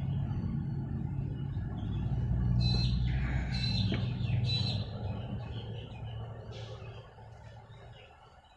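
Birds chirping a few short times in the middle, over a low steady drone that fades away over the last second or two.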